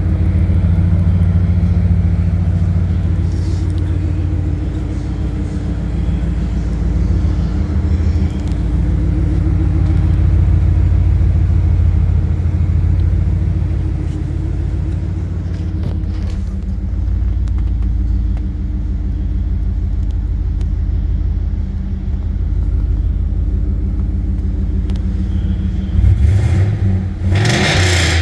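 Turbocharged 2006 Ford Mustang Saleen S281's V8 engine running, a deep steady rumble that shifts a little in pitch. About two seconds before the end comes a brief, louder surge of noise.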